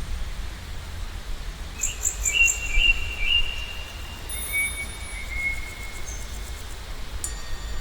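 Birds chirping and calling: a quick run of short repeated chirps about two seconds in, then several thin, high whistled notes, over a steady low rumble.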